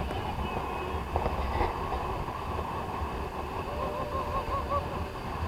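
Steady low rumble of a motorboat's engine with wind and water noise, and a faint wavering tone about four seconds in.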